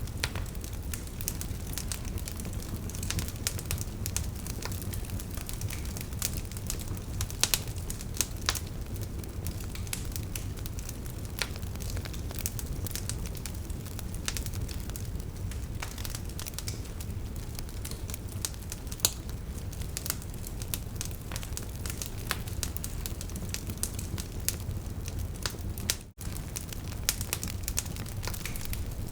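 Burning logs crackling: a steady low rumble of flames with frequent sharp pops and snaps at irregular intervals. The sound cuts out for an instant near the end.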